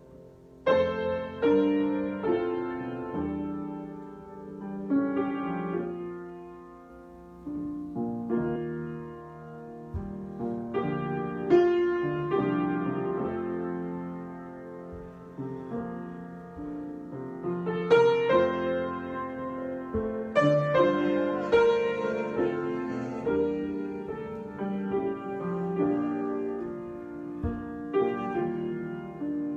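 Solo piano improvisation: chords and melody notes struck in a slow, free rhythm, each ringing and fading, with louder swells about a third and two-thirds of the way through.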